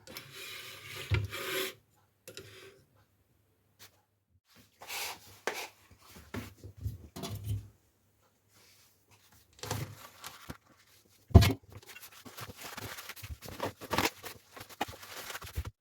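Paper towel rustling and rubbing in separate bursts as drained raisins are blotted dry, with one sharp thump about eleven seconds in.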